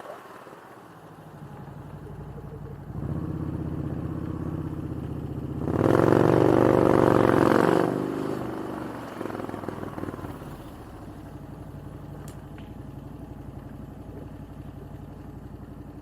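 Motorcycle engine running, picking up about three seconds in, revving hard for a couple of seconds about six seconds in, then settling back to a steady low running.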